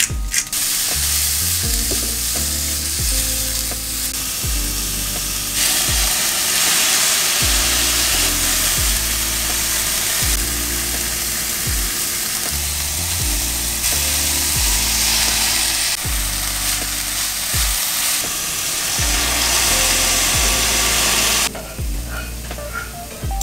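Mushrooms sizzling as they stir-fry in a pan. The sizzle gets louder about five seconds in and drops away sharply near the end. Background music plays under it.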